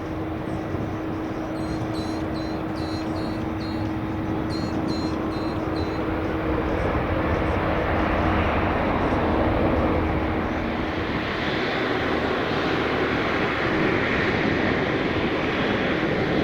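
Boeing 777-300ER's twin GE90-115B turbofans at takeoff thrust: a steady jet roar that grows louder over the first half and stays loud, with a steady hum in it that fades out about two-thirds of the way through.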